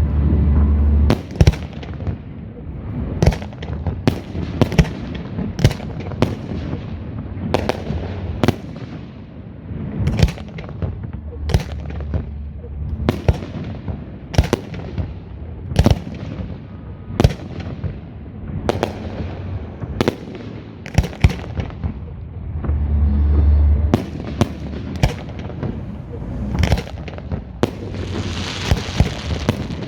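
Aerial fireworks shells bursting in quick, irregular succession, with sharp reports one or two a second over a continuous rumble. Deeper booms come at the start and about 23 seconds in, and a hissing burst comes near the end.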